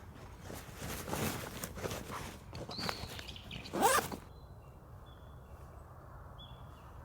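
A zipper being pulled open and shut in several quick strokes, the last one the longest and loudest, stopping about four seconds in. Faint bird chirps follow.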